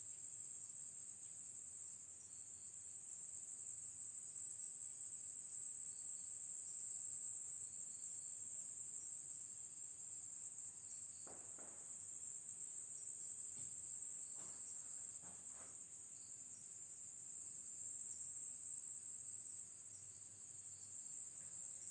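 Steady high-pitched chorus of crickets, faint, with a few brief soft noises near the middle.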